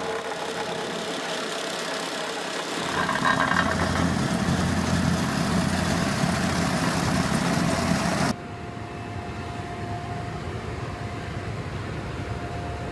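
Road-construction machinery running with a noisy engine sound, joined by a deeper engine rumble about three seconds in. About eight seconds in the sound cuts off abruptly to a quieter machine hum with a steady whine.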